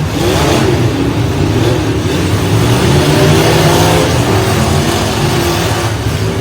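Demolition derby pickup truck engines revving hard together, their pitch repeatedly rising and falling.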